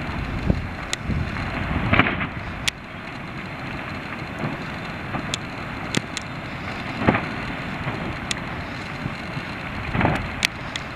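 Ash eruption of Ebeko volcano: a steady rushing noise from the billowing ash column, with deeper rumbling in the first couple of seconds, and scattered sharp crackles throughout.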